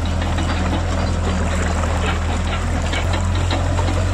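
Shallow river water running and trickling over gravel, with a steady low hum underneath.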